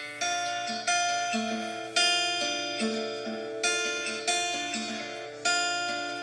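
Acoustic guitar playing a song's intro: chords struck about once a second and left to ring out, with a few single notes between them.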